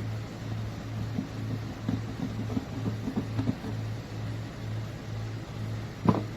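Aobosi cold-press juicer's motor running with a low hum that pulses about twice a second. A run of short crunching crackles comes between one and three and a half seconds in, as produce is pressed, and one sharp knock comes near the end.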